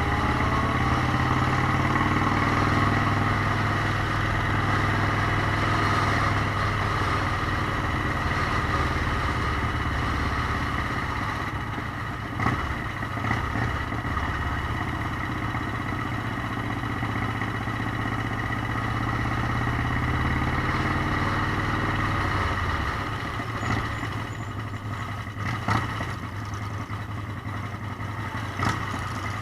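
Motorcycle engine running steadily while riding, with a low, even engine note that eases off about three quarters of the way through, plus a few short clicks near the end.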